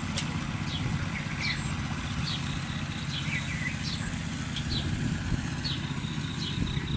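Short, high, falling bird chirps repeating every half second to a second over a steady low rumble.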